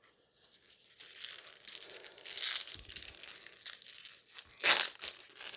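Trading card pack wrapper crinkling and tearing as the pack is opened, starting about a second in, with one short, loud crackle near the end.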